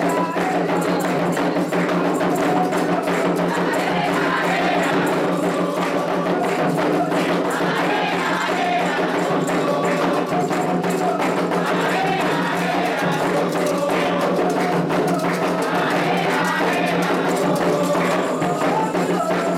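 Candomblé ritual music for Oxossi: a steady, dense rhythm on atabaque hand drums with other percussion, and group singing over it.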